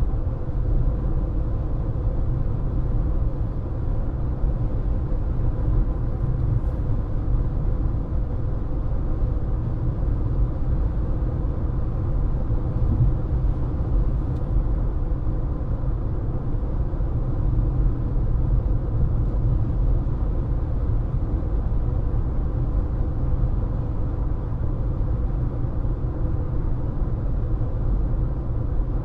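Steady road noise of a car driving at speed: low tyre and engine rumble with a faint steady hum above it, unchanging throughout.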